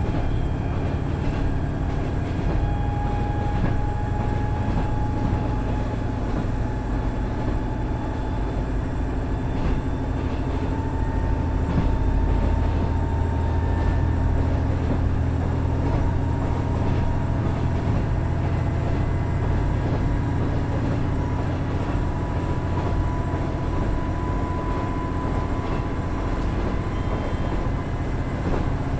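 KiHa 110 series diesel railcar under way, its Cummins DMF14HZA diesel engine and drivetrain giving a steady low drone. A faint whine slowly rises in pitch, with scattered light clicks from the running gear.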